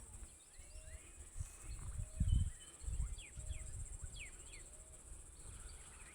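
Outdoor nature ambience: a steady high insect drone with scattered short bird chirps and a short low call repeating about once a second. Intermittent low rumbling runs underneath and is loudest about two seconds in.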